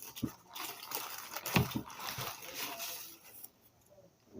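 Wet mouth sounds of a person biting into and chewing a Subway sandwich, with a few soft thumps.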